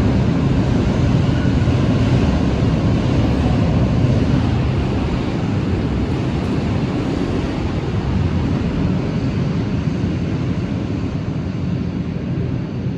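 A train passing close by: a loud, steady rumble that slowly fades over the last few seconds.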